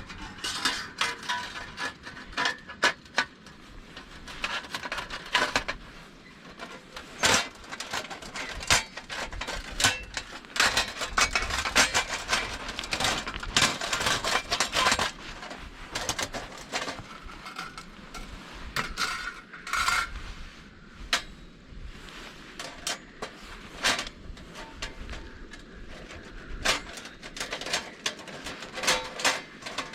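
Many irregular clinks, clatters and knocks of hard objects being handled, busiest in the middle.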